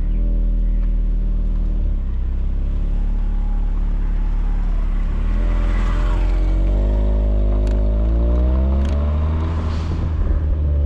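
Volkswagen Polo GTI's 1.8 TSI turbocharged four-cylinder engine heard at the exhaust, running at a steady note for about five seconds. Then its pitch rises and falls a few times as the revs change.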